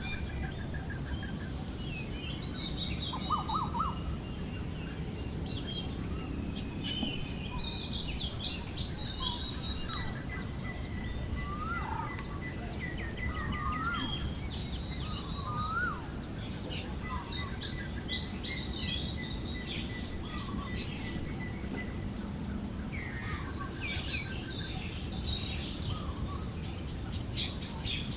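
Forest ambience: many small birds chirping in short, scattered calls and trills over a continuous high-pitched insect trill, with a steady low background hiss.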